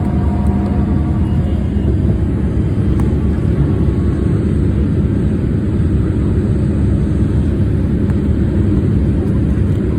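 Boeing 787 Dreamliner's jet engines and airflow heard from inside the passenger cabin under takeoff power: a loud, steady, deep rumble.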